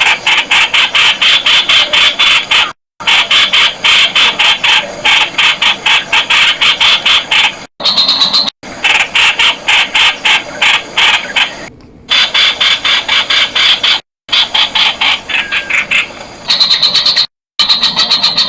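Streak-eared bulbul calling: loud runs of sharp notes repeated fast, about eight a second, broken several times by sudden silent gaps.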